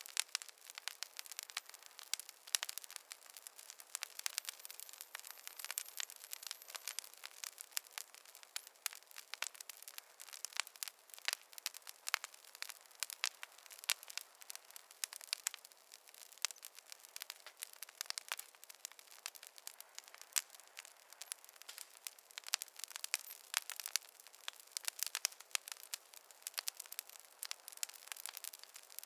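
Wood campfire crackling: a dense, irregular run of sharp pops and snaps, several a second, over a soft hiss.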